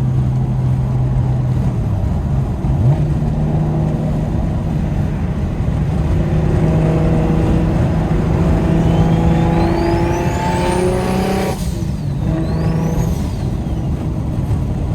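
Single-turbo BMW N54 straight-six with a straight-pipe exhaust, heard from inside the cabin pulling hard. The engine note climbs over several seconds while a turbo whistle rises to a very high pitch. The sound drops off abruptly near the end, a short second whistle rises and falls, and the engine settles back to a steady drone.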